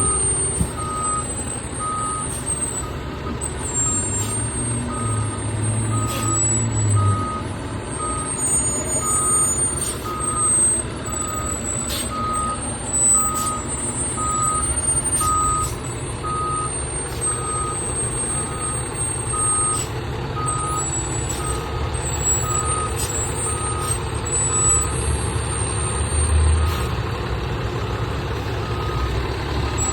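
Fire truck backing up: its diesel engine runs with a low rumble while the reversing alarm beeps steadily, about once a second.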